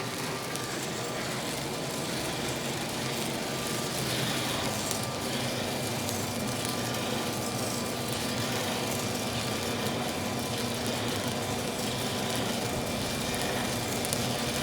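Dryer-vent cleaning vacuum running steadily, a constant motor noise with a faint steady hum.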